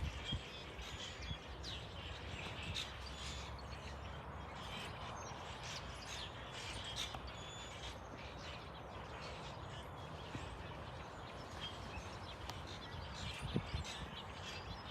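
Small birds chirping and tweeting again and again over a faint, steady background rumble, with a brief low knock near the end.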